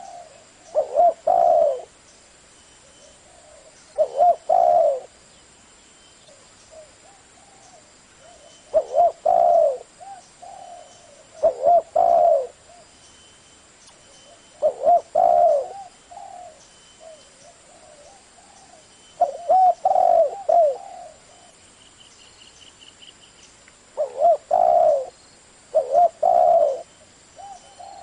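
Spotted dove cooing, a short phrase of low coos repeated about every three to four seconds, with quiet gaps between.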